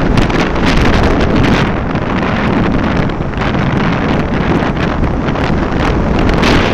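Wind buffeting the microphone over the steady noise of a vehicle on the move.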